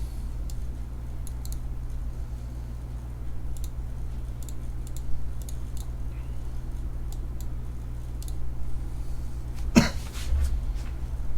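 Scattered light clicks and handling noises from sports card boxes and packs being opened, over a steady low hum, with one short loud burst near the end.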